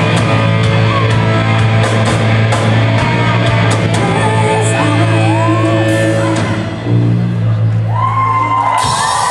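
Live rock band playing at high volume: a held low bass note under guitar, with cymbal hits throughout. Near the end the band stops and the crowd cheers and whoops.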